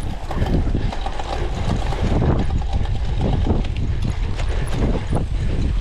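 Cyclocross bike rattling and clattering over rough, bumpy ground during a race, with a steady rumble of wind on the microphone.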